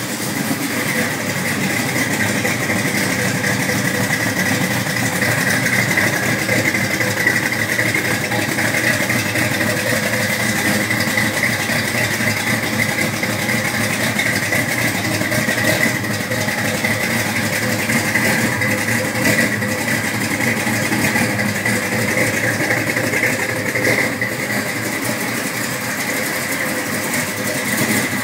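1970 Chevrolet pickup truck engine idling steadily, shortly after a cold start.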